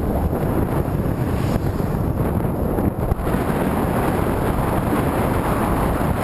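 Wind buffeting the microphone, a steady dense low rumble, from heading into a headwind.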